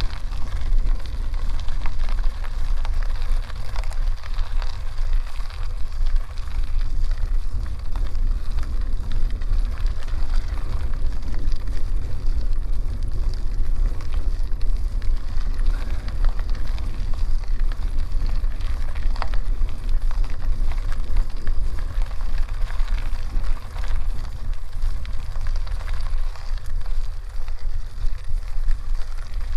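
Bicycle tyres rolling steadily over a gravel dirt road, a continuous crackly crunch, with a steady low rumble of wind on the microphone.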